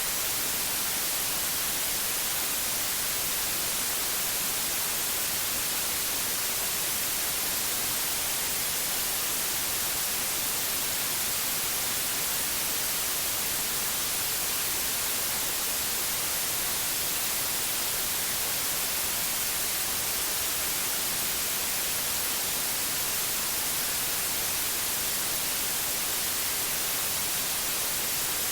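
Steady, unbroken white noise: an even hiss, brightest in the treble, with no change in level or character.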